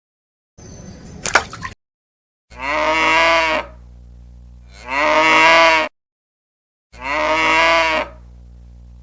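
Cow mooing: three long, drawn-out moos about two seconds apart, each with a slightly falling pitch. Before them there is a short rustle with a click.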